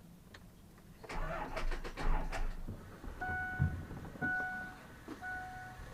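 A second of clattering with sharp clicks, then a steady two-note electronic beep that sounds three times, each about two-thirds of a second long and about a second apart.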